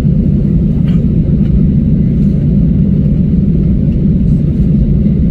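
Airliner cabin noise on the ground just after landing: a loud, steady low rumble of the engines and airframe heard from inside the cabin.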